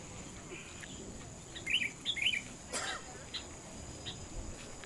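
A small bird chirping in short, quick phrases, twice close together about two seconds in, over faint outdoor background noise. A brief sharp sound cuts in near three seconds.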